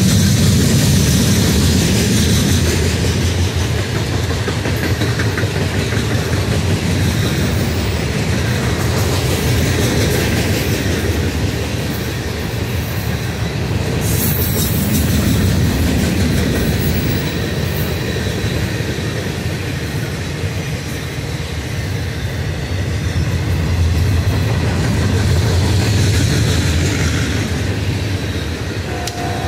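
Freight train Q603, a mixed string of tank cars, boxcars and covered hoppers, rolling past close by: a steady rumble of steel wheels on rail, slowly swelling and easing as the cars go by.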